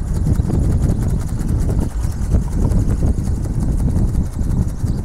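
Strong wind buffeting the microphone: a loud, gusty low rumble that swells and dips.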